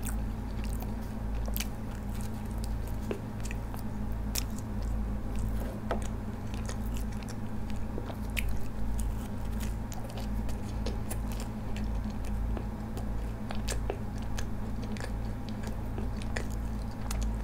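A person chewing and biting food close to the microphone, with crisp crunches and many small wet mouth clicks. A steady low hum runs underneath.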